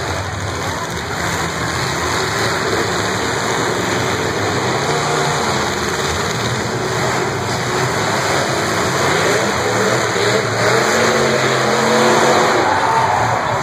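Several demolition derby cars' engines revving hard at once, the pitch rising and falling as they accelerate around the dirt arena.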